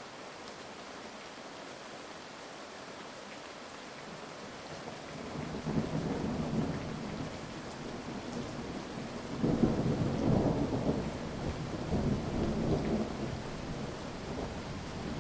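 Steady heavy rain hiss, with thunder rumbling in about a third of the way through and rolling in several loud peaks, the strongest around two-thirds in, before easing off under the rain.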